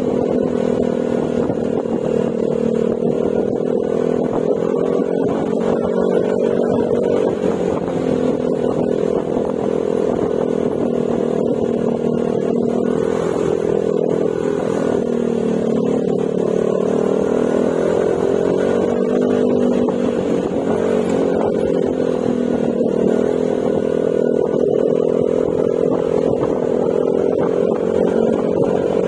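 Yamaha Mio Gravis scooter's single-cylinder engine running through an aftermarket Akrapovic exhaust with silencer at a steady ride, its pitch rising and falling gently with the throttle.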